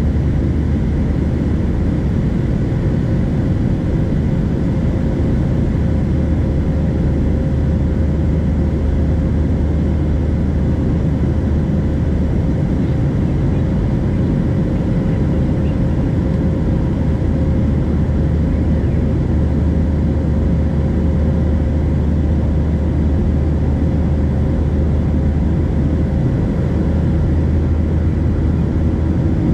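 Steady cabin noise of a Boeing 737-700 in flight, with its CFM56 engines giving an even, deep rumble and a constant hum that does not change.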